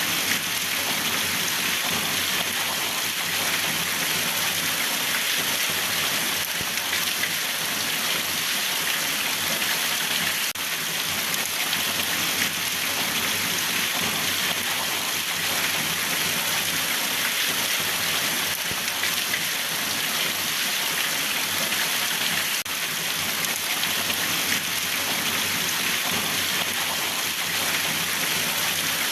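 Steady rain falling and pattering on surfaces, an even hiss without a break.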